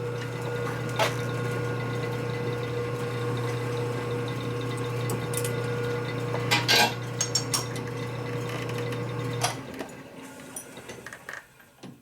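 Electric motor of a metalworking machine tool running steadily with a low hum, with a few sharp metal clicks, then switched off about nine and a half seconds in and falling quiet.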